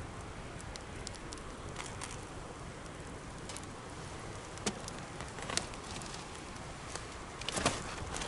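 Wood campfire crackling: a steady soft hiss with scattered sharp pops, and a few louder snaps in the second half.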